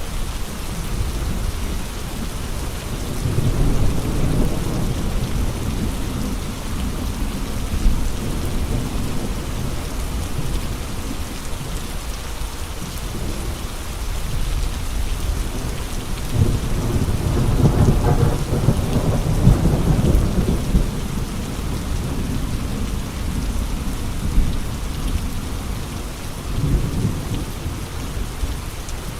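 Steady rain with wind. Deep low rumbles swell up about three seconds in, again for several seconds past the middle, and briefly near the end.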